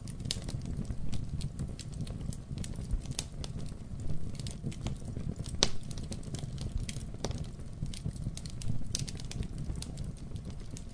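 Wood fire in a fireplace crackling: a steady low rumble of flames with frequent irregular sharp pops and snaps, one louder pop a little before halfway.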